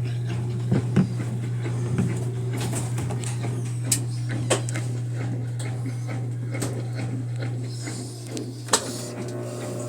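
A steady low hum with a few scattered clicks and light knocks, the sharpest one near the end.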